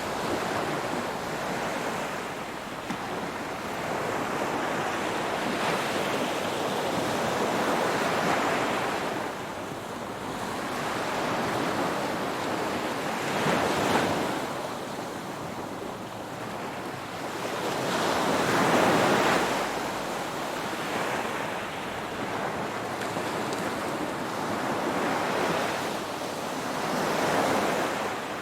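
Ocean waves breaking and washing in, each surge swelling and easing again every five or six seconds.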